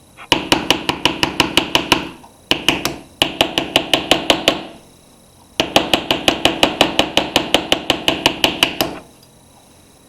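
Hammer tapping rapidly on a rounded expansion-gap tool to bend a thin litho strip into a curve: light, quick blows about seven a second, in three runs with short pauses between them.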